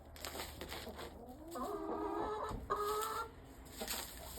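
Chickens clucking, with two drawn-out pitched calls in the middle, one after the other, and some short scratchy rustling around them.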